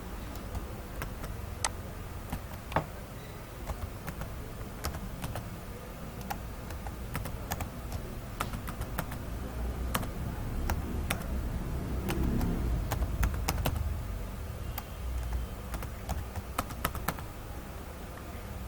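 Typing on a computer keyboard: irregular, scattered key clicks over a low steady hum.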